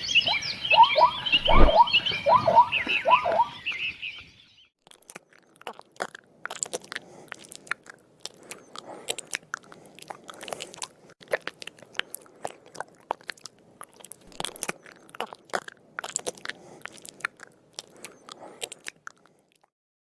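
A quick run of repeated pitched animal calls for about the first four seconds, then a long stretch of irregular crunching and chewing, like an animal eating.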